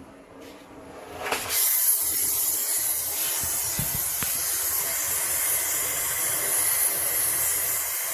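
Oxy-fuel brazing torch lit about a second and a half in, then hissing steadily as its flame heats a copper water-pipe tee joint for brazing.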